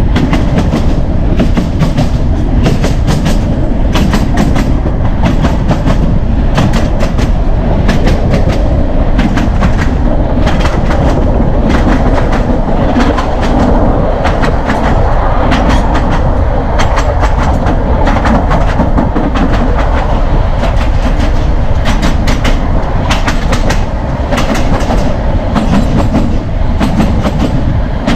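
Narrow gauge train coach running along the track: wheels clicking over rail joints in an uneven run of clicks over a steady rolling rumble.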